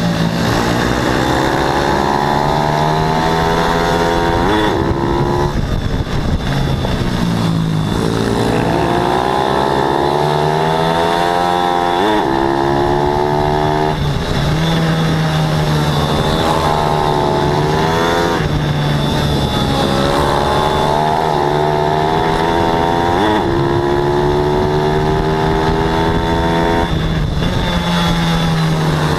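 Pit bike engines racing at full throttle. The revs climb again and again and fall back every few seconds, the way they do between corners, and a second bike can be heard at a steadier pitch underneath.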